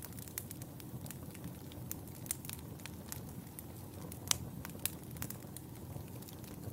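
Wood fire in a fireplace crackling: scattered sharp pops and snaps over a low, steady rumble of the flames, with one louder pop about two-thirds of the way through.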